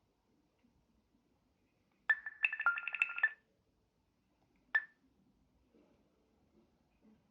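Microsoft Lumia 640 XL smartphone chiming on its own through its speaker, with nothing to trigger it: a quick flurry of short electronic notification tones at two or three pitches lasting about a second, then a single short ping a moment later. The owner asks whether the phone is broken, since a restart, pulling the battery and uninstalling messaging apps did not stop it.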